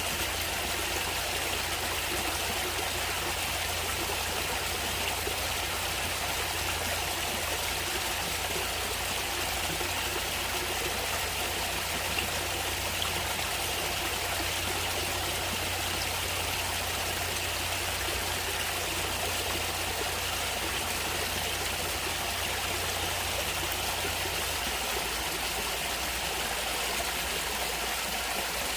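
Running water of a natural stream, flowing and trickling in a steady, unbroken rush.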